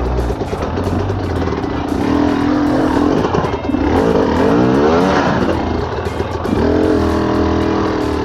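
Enduro dirt bike engine revving hard while climbing, its pitch rising and falling repeatedly about halfway through, with steadier running before and after.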